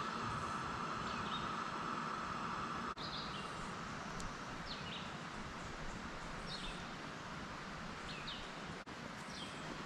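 Outdoor woodland ambience: a bird repeats a short falling chirp every second or so over a steady hiss. A steady high hum fills the first few seconds, and the sound drops out briefly about three seconds in and again near the end.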